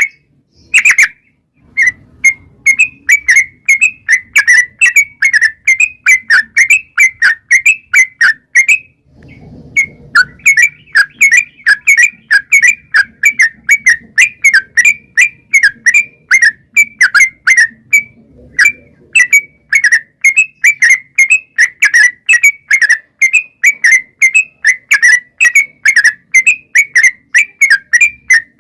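Yellow-vented bulbul (trucukan) singing a long, rapid song of short, sharp whistled notes, about three a second, with brief pauses about one and a half seconds and nine seconds in.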